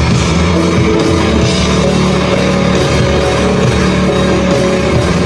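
Live rock band playing loud and steady, with electric guitar and drum kit.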